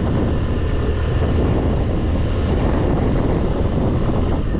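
Scooter engine running steadily on the move, under heavy wind noise on the microphone.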